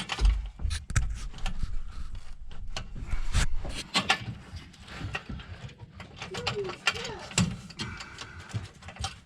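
Irregular metallic clicks and clanks of hand tools working a nut and washer onto a threaded-rod exhaust hanger under a truck.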